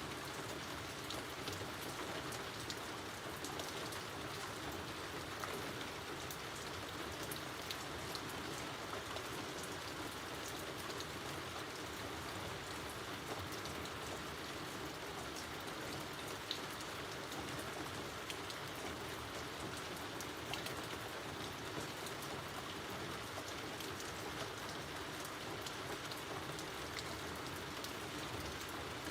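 Steady rain falling outdoors, a constant hiss with many small drops pattering on surfaces.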